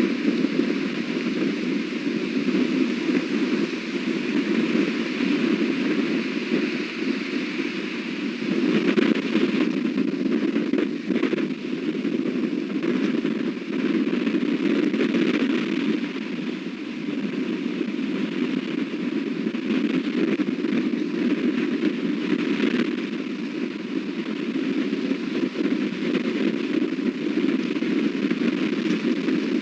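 Strong wind blowing across the nest-cam microphone, a steady rushing noise that swells and eases with the gusts, with a few faint crackles about ten seconds in.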